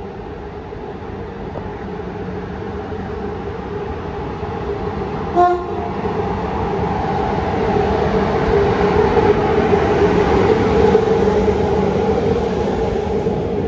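Passenger train hauled by an electric locomotive running in past the microphone, its rumble and motor hum growing louder as it comes close, with coaches rolling by near the end. The locomotive's horn gives one short toot about five seconds in.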